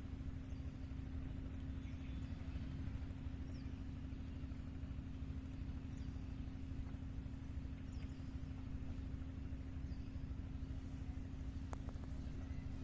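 A small engine running steadily, a constant low drone with an even hum that does not change.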